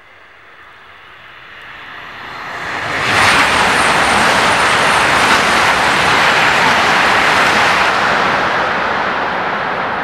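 E5 series Shinkansen passing at high speed: a rushing noise that builds over about three seconds, stays loud for about five seconds as the train goes by, then slowly eases.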